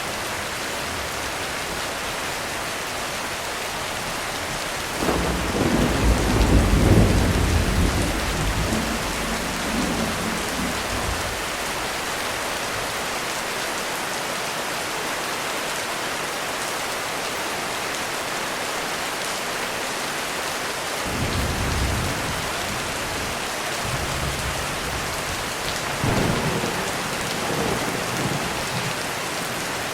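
Heavy rain falling steadily, with a long roll of thunder starting about five seconds in and two shorter, fainter rumbles of thunder later on.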